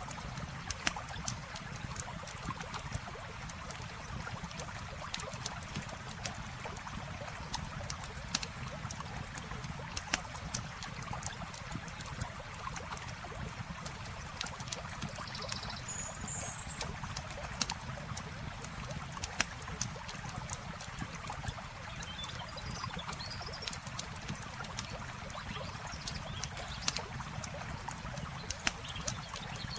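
Campfire crackling, with frequent sharp pops, over the steady rush of flowing river water.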